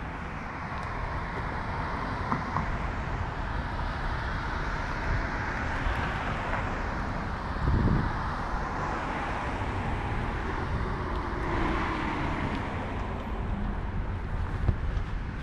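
City street traffic with low rumble on the microphone from a moving bicycle, and a brief low thump about eight seconds in.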